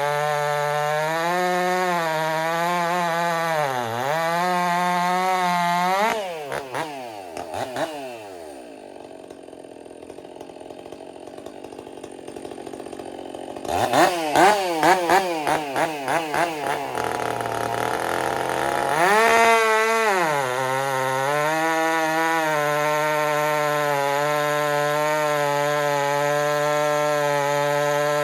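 Stihl MS 400 C two-stroke chainsaw fitted with an Egan Straight Shot exhaust, running at high revs, then swinging in pitch and dropping to a low idle for several seconds partway through. It is then blipped a few times and brought back up to steady high revs. The owner suspects the exhaust has cost the saw power and torque.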